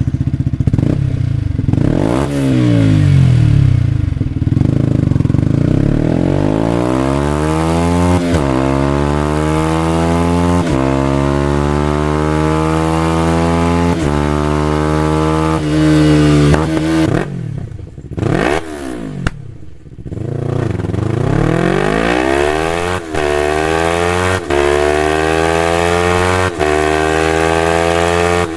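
Yamaha R-series sport motorcycle engine accelerating hard through the gears. Its pitch climbs and drops sharply at each upshift, several times over. Past the middle the engine note falls away briefly, then pulls through the gears again.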